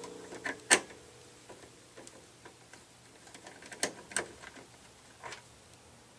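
Hand tools and small metal parts clicking and knocking while a jukebox is taken apart: a sharp click under a second in, two more close together near the middle, one more near the end, and lighter ticks between them.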